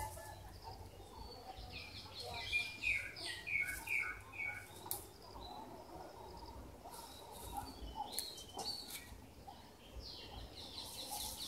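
Birds chirping, with a quick run of about five chirps a few seconds in, over scattered light rustles and clicks.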